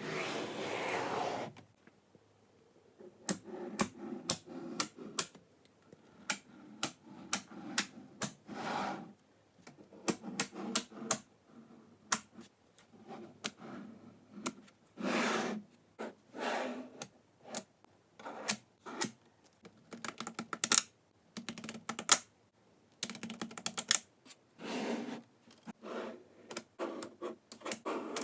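Small neodymium magnetic balls clicking and snapping together in quick, irregular runs, with a few longer rattling stretches.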